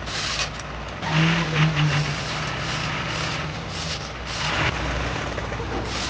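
A vehicle engine running, with a steady low hum and a stronger pitched drone from about one to two and a half seconds in.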